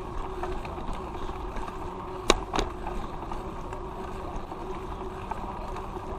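Bicycle riding along a street: steady rolling and wind noise, with two sharp clicks about a quarter second apart a little over two seconds in.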